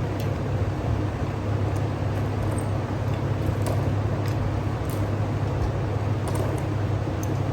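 A steady low mechanical hum with a few faint, light clicks over it.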